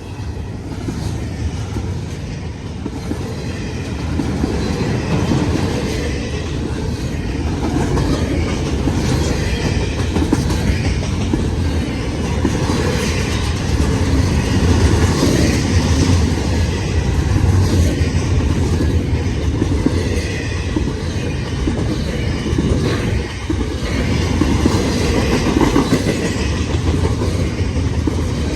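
A freight train's cars rolling past at track level, wheels clattering steadily over the rails; the noise builds over the first few seconds, then holds loud.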